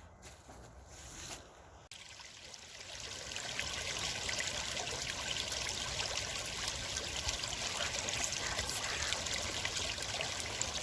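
Running water trickling steadily, faint at first, then growing louder over a couple of seconds and holding steady.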